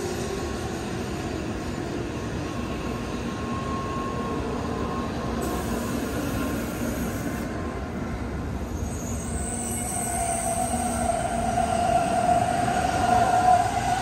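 An N700-series Shinkansen train running past with a steady rumble. About two-thirds of the way through, a high steady tone sets in and the sound grows louder.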